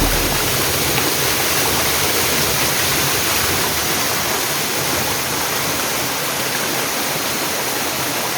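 Stream water rushing steadily over a drop.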